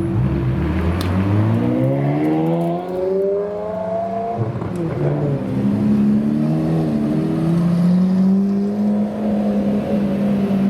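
Car engine accelerating: its pitch climbs for about three seconds, then drops and holds at a steady drone.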